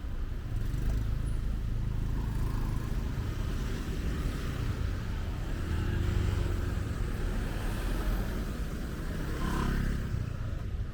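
Road traffic: vehicle engines running past with a steady low rumble, one passing closer near the end.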